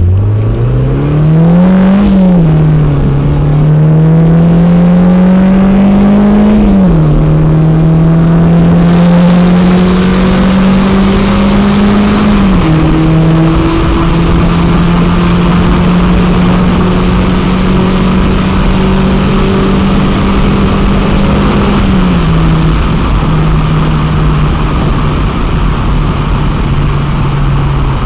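Mazda MX-5's four-cylinder engine accelerating hard through the gears, its pitch climbing and dropping at upshifts about 2, 7 and 12 seconds in. It then holds a steady high pitch at speed and steps down a little around 22 seconds. The car has an aftermarket air filter.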